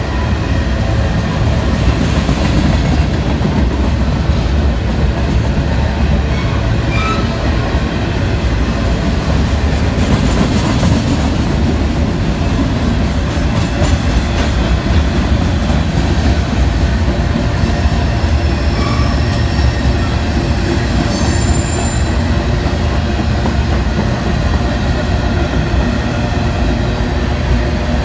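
Freight train of open-top cars rolling steadily past, a loud continuous rumble of steel wheels on the rails. A faint high wheel squeal comes in during the later part.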